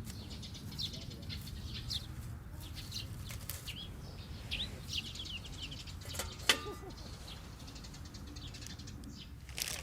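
Small wild birds chirping in short, quick calls over a low steady rumble, with one sharp click about six and a half seconds in.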